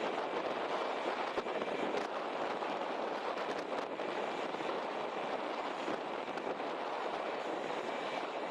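Steady rushing noise of a jet airliner's engines and airflow, with a faint high whine and a few light clicks.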